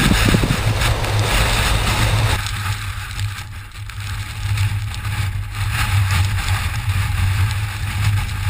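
Car driving through hurricane wind: a steady, loud low road-and-engine rumble with a hiss of wind over it. The middle of the sound thins out about two seconds in.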